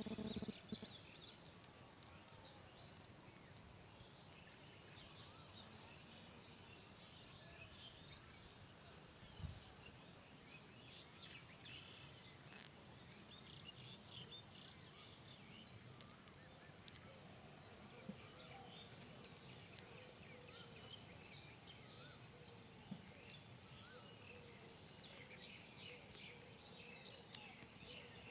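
Faint outdoor ambience with scattered small bird chirps over a low steady hiss, and a few brief faint clicks.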